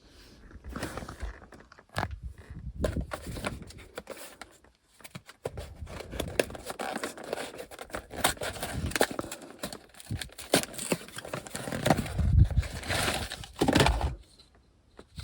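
Irregular handling noises: crinkling, scraping and a string of sharp clicks and knocks, in bursts with short pauses between them.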